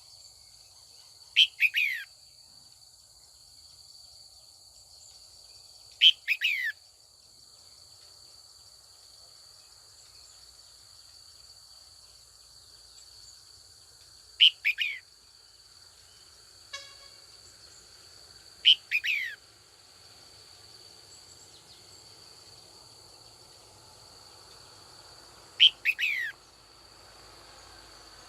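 Red-whiskered bulbul calling: five short bursts a few seconds apart, each two or three quick notes falling in pitch. A steady faint high-pitched whine runs underneath.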